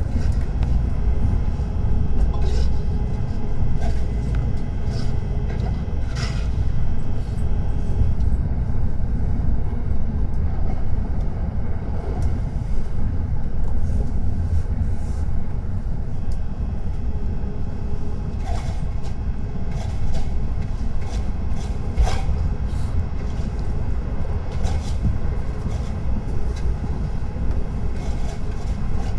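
Tokaido Shinkansen train running: a steady low rumble, with scattered short sharp clicks over it.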